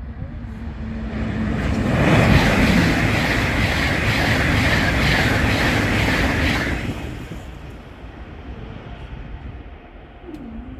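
LNER Azuma high-speed train passing over a level crossing at speed. It builds up over about two seconds into a loud rush with a regular clatter of wheels on the rails, then fades away after about seven seconds.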